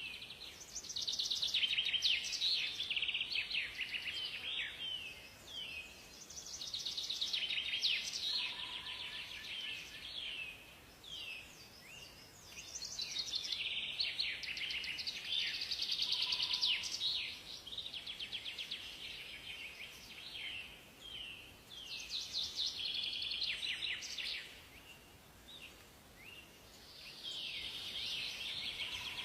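Songbirds singing in overlapping bouts of rapid high chirps and trills, each bout lasting a few seconds with quieter gaps between. A faint, short, lower whistled note sounds three times, about eight seconds apart.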